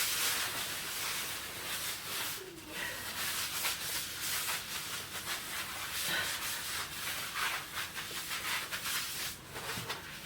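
Irregular rubbing and scrubbing noise that rises and falls, with a few light clicks, as of a spill being wiped up.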